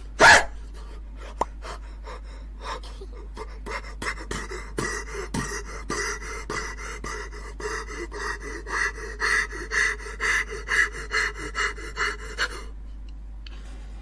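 A short, loud vocal burst, then a person panting hard in a steady rhythm of about two breaths a second. The panting grows louder and stops shortly before the end. A low steady hum runs underneath.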